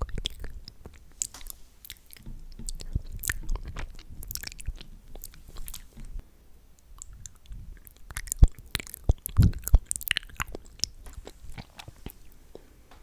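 Close-miked wet mouth sounds: irregular sticky clicks, smacks and chewing noises of lips and tongue, with a louder cluster of pops around two-thirds of the way in.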